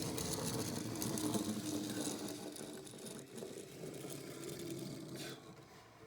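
Small wheels of a toy Boeing 737-800 model airliner rolling across a table as it is pushed along, a fast rattle that grows fainter after about three seconds.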